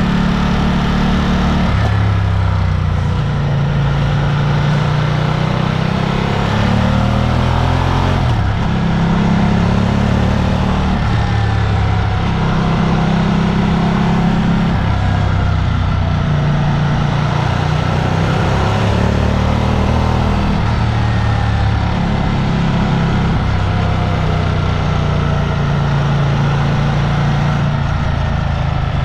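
A motor vehicle's engine running on the move, its pitch rising and falling in steps every few seconds as the speed changes.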